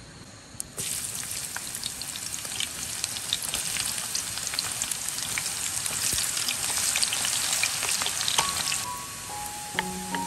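Sliced shallots frying in hot oil in a pan: a loud crackling sizzle starts suddenly about a second in, full of fine pops, and eases off near the end as background music comes in.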